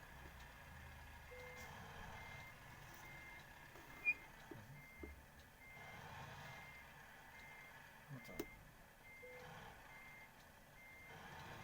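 Reversing warning beeper sounding a steady run of short high beeps, a little more than one a second, with two sharp clicks about four and eight seconds in.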